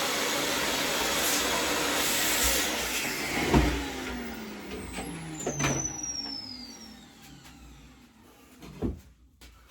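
A loud power tool used to clean the rusting steel mower deck runs steadily, then is switched off about three and a half seconds in and spins down with a slowly falling whine. A few knocks are heard as it winds down.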